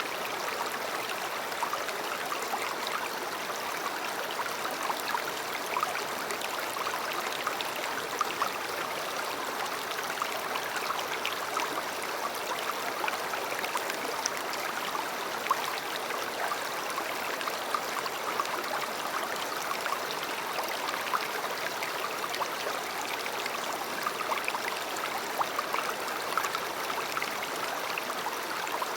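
River water flowing steadily over stones: an even rush dotted with many small splashes and gurgles.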